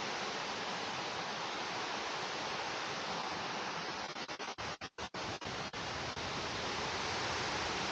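Steady rush of water cascading over a waterfall's tiers. Around the middle the sound drops out briefly several times.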